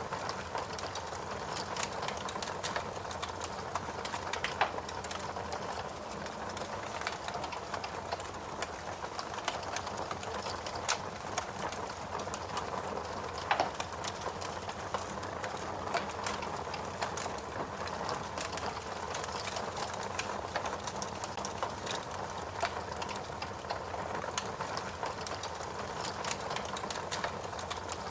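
Fire crackling steadily: frequent small pops and snaps over a soft continuous hiss, with a slightly louder pop about halfway through.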